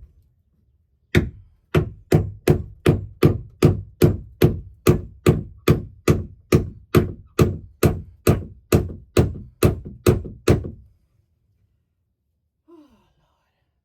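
Hammer driving a nail into a wooden roost board: a steady run of about twenty sharp strikes, a little over two a second, stopping about ten and a half seconds in.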